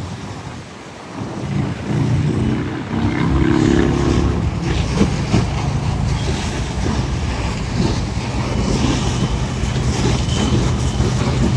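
A vehicle engine running close by, rising in level about a second and a half in and then holding steady, with a rushing noise over it.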